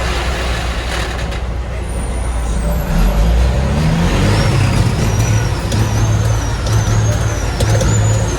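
Heavy truck's diesel engine running low and steady, then revving up about three seconds in and pulling hard. A thin high whistle climbs and dips several times over the engine.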